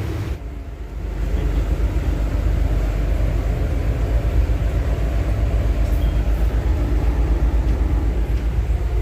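Steady low rumble with a faint steady hum above it, typical of a ship's engine drone heard on board. It dips briefly just after the start, then holds steady.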